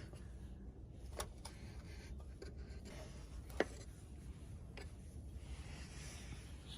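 Faint rustling with a few sharp, isolated clicks, the loudest about three and a half seconds in, over a steady low rumble.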